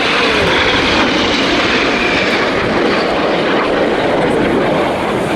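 BAE Hawk T1 jets of the Red Arrows flying past in display formation: loud, steady jet engine noise with a faint pitch shift as they pass.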